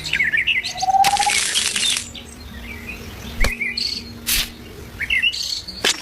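Small birds chirping in short clusters of quick up-and-down chirps, spaced a few seconds apart. A brief hiss comes about a second in, and a few sharp clicks follow.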